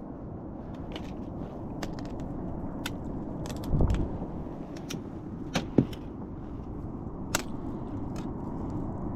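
Steady rush of wind and sea water around a surf ski, with scattered sharp clicks and a few louder knocks.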